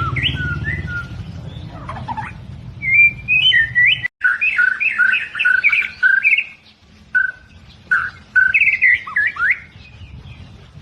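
White-rumped shama (albino murai batu) singing: a string of varied whistled phrases with quick rising and falling slurs and rapid trills. A low hum runs under the first four seconds and stops at a brief dropout about four seconds in.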